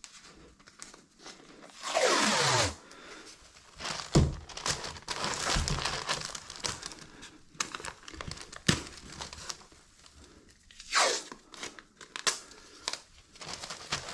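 Adhesive tape ripped off the roll twice, each rip under a second with a falling pitch, while seams are being taped. Between the rips come crinkling and handling noise from sheeting or tape being pressed down.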